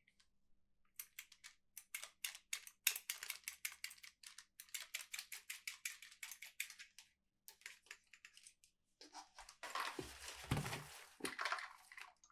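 Toy packaging being handled and opened: a run of quick crinkling strokes, about four or five a second, then a longer, denser rustle with a couple of soft thumps near the end.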